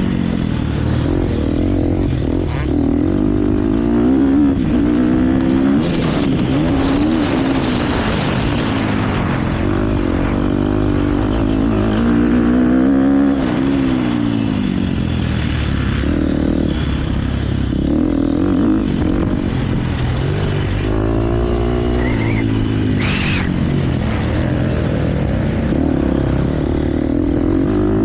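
KTM motocross bike engine at race pace, revving up and easing off over and over as the throttle opens and closes.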